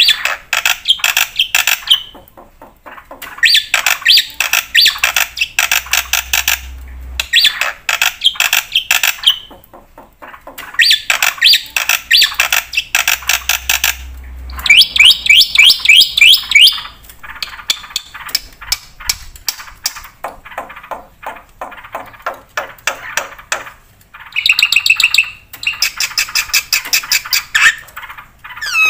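Black-winged starling singing loudly in bursts of a few seconds of fast, harsh, chattering notes with short pauses between them, including a run of rising whistled notes about halfway through.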